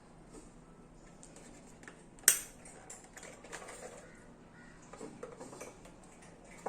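Quiet clicking and rattling of hard plastic RC tank parts being handled, with one sharp click about two seconds in and a few lighter clicks after it.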